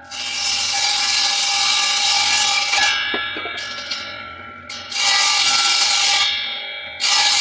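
Homemade saw driven by an old washing-machine motor, running with a steady whine and cutting in loud noisy passes: a long one of about three seconds, then shorter ones starting about five and seven seconds in.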